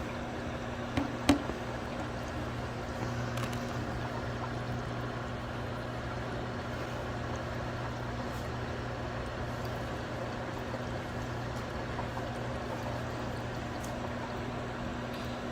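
COMFYHOME evaporative air cooler running: a steady fan-motor hum with water trickling inside as it circulates to the cooling pad. Two light clicks come about a second in.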